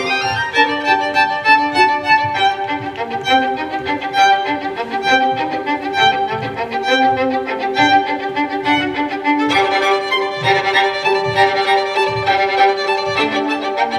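Instrumental music led by a violin, playing quick repeated notes over steady held notes, growing fuller and brighter about ten seconds in.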